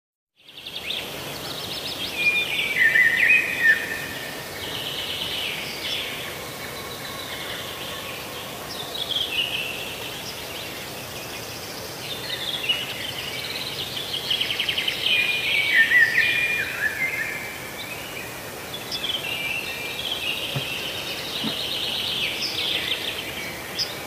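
A songbird singing short phrases that fall in steps, repeated every few seconds, over a steady outdoor background hiss.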